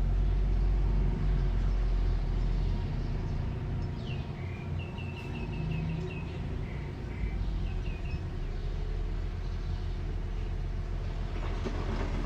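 Construction machine's engine running with a steady low rumble. A bird calls a quick run of repeated chirps about four seconds in, and again shortly after.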